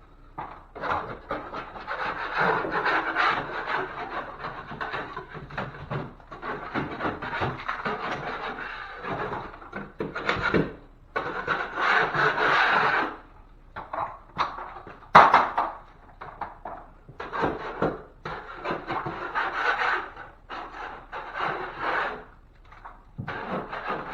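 Drywall knife scraping across the drywall of a ceiling patch in repeated strokes, to knock down the rough edges before taping. The strokes run almost without pause at first, then come shorter with brief gaps after about ten seconds.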